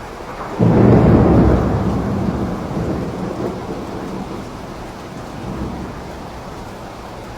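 Steady rain with a clap of thunder about half a second in, a deep rumble that rolls on and fades over several seconds.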